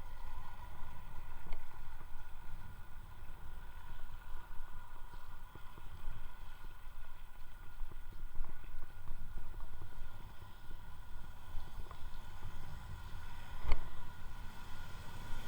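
Electric unicycle ride heard through the rider's microphone: uneven low rumble of wind and road buffeting, with faint steady whining tones above it. A single sharp knock comes about 14 seconds in.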